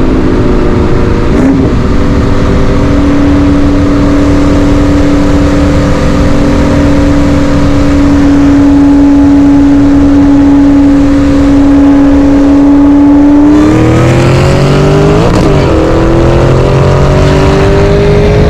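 Supercharged V8 car cruising with a steady engine drone, then going to full throttle about two-thirds of the way in, its note rising steadily under hard acceleration in a roll race, with a brief break in the rise a second or two later.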